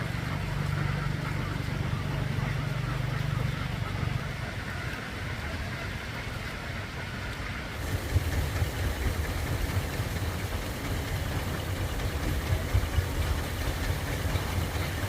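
Vehicle engine idling with a steady low hum, turning to a rougher, uneven rumble from about eight seconds in.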